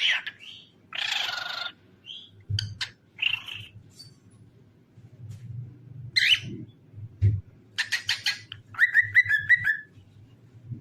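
Cockatiel chirping and whistling in short calls, with a harsh screech about a second in and a quick run of chirps near the end.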